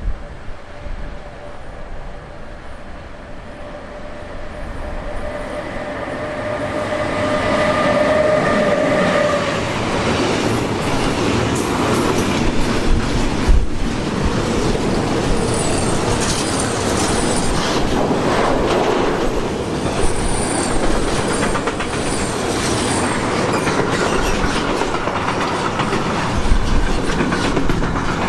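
A train passing close by, growing louder over the first several seconds and then running past steadily. A whine is heard from about six to nine seconds in. Later the wheels click in repeated pairs over the rail joints.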